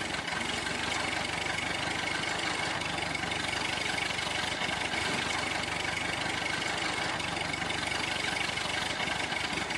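Small motor running steadily, with a fast, even rattle.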